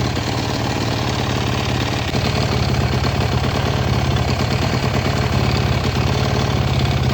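Yamaha YFZ 450's single-cylinder four-stroke engine idling steadily, run briefly on fresh oil after an oil change to check for leaks. It gets slightly louder about two seconds in.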